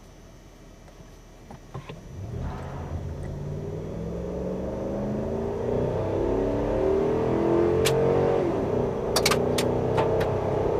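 2011 Dodge Ram 1500's 4.7-litre V8 accelerating hard from a standstill in a 0 to 60 mph run: the engine note rises steadily after about two seconds, drops at a gear change about eight seconds in, then climbs again. A few sharp clicks come around the shift.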